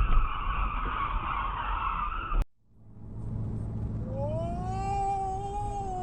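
Car road noise that cuts off abruptly about two and a half seconds in; then tyres squealing in a skid, a long pitched squeal that rises a little and then falls away.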